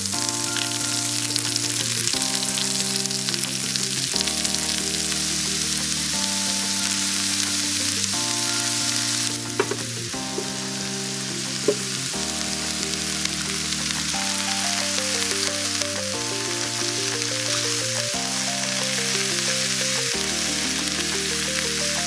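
Chopped onion and garlic sizzling as they fry in oil in a pan, under background music that changes chord about every two seconds. About halfway through, diced tomatoes and red peppers are tipped into the pan with a couple of light knocks, and the sizzle becomes a little softer.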